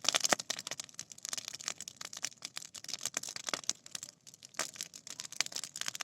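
Bonfire crackling: a dense, irregular run of sharp pops and snaps.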